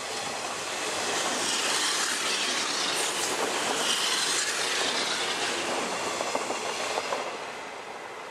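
JR 583-series electric train passing close by, its wheels clattering on the rails. The noise builds, then fades as the last cars go past near the end.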